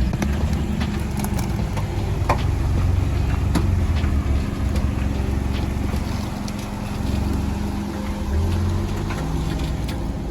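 Jeep Wrangler engine running at low revs while crawling over rough trail, with scattered clicks and knocks of tyres and chassis on rocks.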